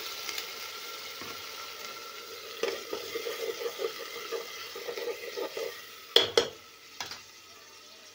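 Freshly ground spice paste sizzling in hot oil in a pressure cooker. From about two and a half seconds in it is stirred with quick scraping strokes of a spoon against the pot. Near the end come two sharp knocks and then a third, while the sizzle dies down.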